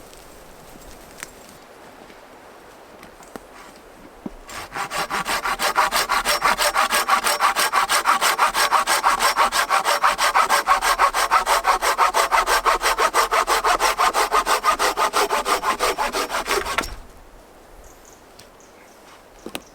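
Hand saw cutting through a length of wood with quick, even back-and-forth strokes, starting about four seconds in and stopping suddenly a few seconds before the end.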